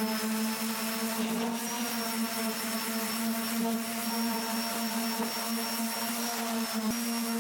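Electric power tool motor running steadily: an even hum with a faint high whine over it.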